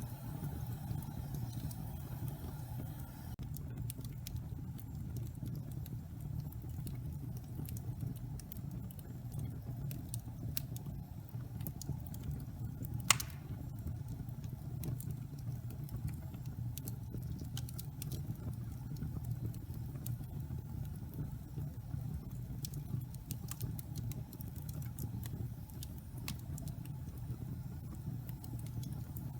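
Log fire burning in a fireplace: a steady low rumble of flames with scattered crackles and one loud pop about halfway through.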